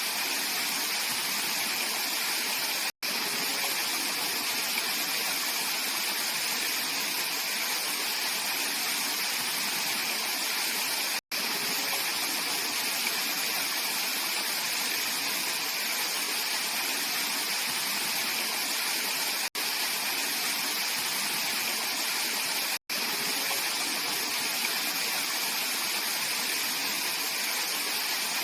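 Mountain valley stream flowing, a steady, even rush of water. It is broken four times by split-second dropouts to silence.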